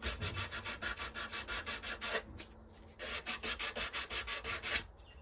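Hand sanding a knife with 180-grit sandpaper to remove file marks: quick back-and-forth strokes, about eight a second, in two runs with a short pause between them.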